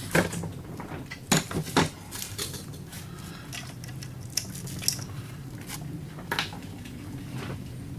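Metal parts of a coffee grinder clinking and knocking while it is being dismantled, with irregular sharp clicks, the loudest about a second and a half in.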